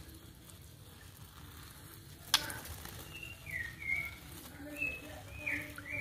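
A single sharp click a little over two seconds in, then a run of short whistled bird chirps, each a quick rise and fall in pitch, about two a second.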